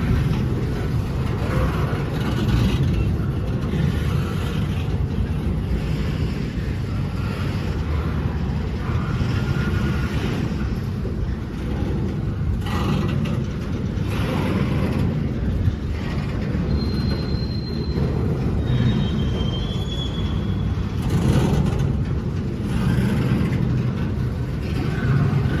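A train rolling past with a steady low rumble of wheels on rail. A few brief high squeals come about two-thirds of the way through.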